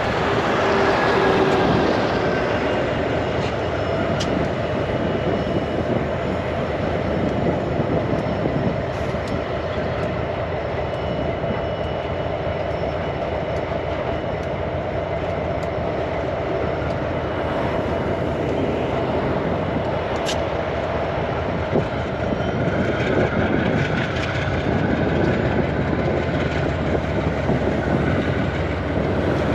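Narrow-gauge diesel freight train running past at a steady level, locomotive engines and wagon wheels on the rails, with one sharp click about twenty seconds in.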